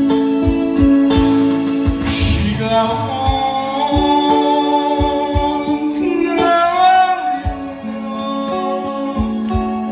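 A singer holding long notes of a slow Korean ballad over a backing track with a steady drum beat.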